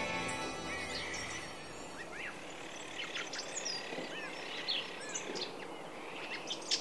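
Several small birds calling over a steady outdoor hiss: scattered chirps and short arched whistles, with a quick run of louder chirps near the end.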